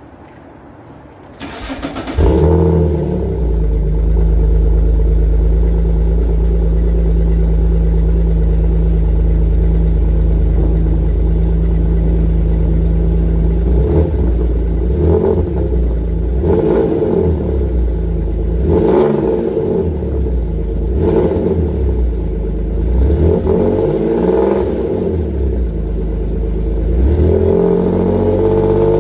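Alfa Romeo GT's 3.2-litre Busso V6 with a CSC quad-tip exhaust on a cold start: the starter cranks briefly, the engine catches about two seconds in and settles into a steady fast idle. From about halfway it is given about six short, light blips of the throttle, kept low because the engine is cold, and it rises once more near the end.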